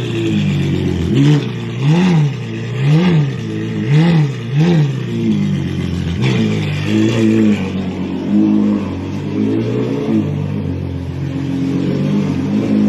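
Ferrari 812 Superfast's V12 running through a Novitec straight-pipe exhaust. It gives several short throttle blips, about one a second, over the first five seconds, then settles to a steadier low-speed running.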